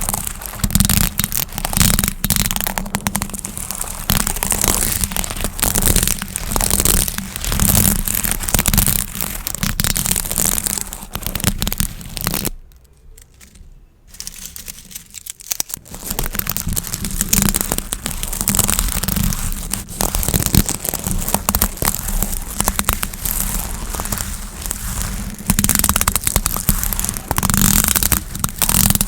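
Gift bows being handled and squeezed, a dense crinkling and crackling with many small clicks. It stops briefly near the middle, then carries on.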